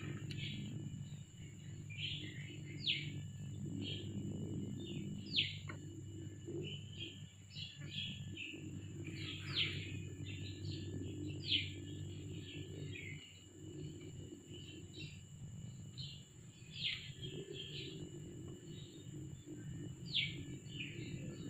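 Birds chirping outdoors: many short calls, several of them quick downward sweeps, repeated every second or two, over a steady low hum.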